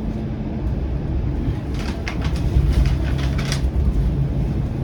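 Flexity Outlook low-floor streetcar running, heard from inside the car: a steady low rumble with a faint motor hum. A cluster of clicks and rattles comes about two to three and a half seconds in.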